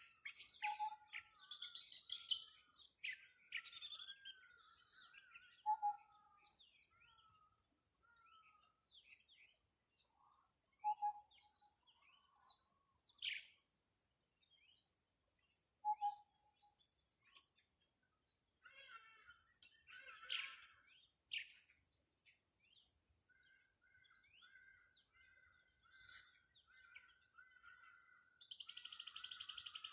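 Several wild birds calling and singing together in quick chirps and trills. A short lower note repeats about every five seconds through the first half, and a dense, steady trill comes in near the end.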